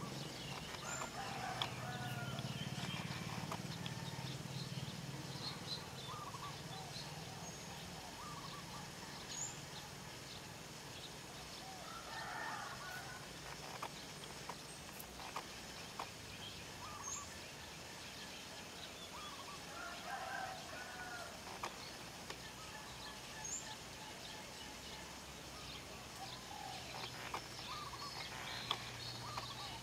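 Outdoor ambience with scattered short bird calls throughout, and a brief high chirp that recurs every seven or eight seconds.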